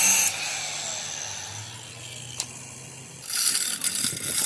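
Shop power tool on metal: a loud hiss cuts off just after the start and a falling whine fades away, a single click follows, then loud crackling noise starts again about three seconds in.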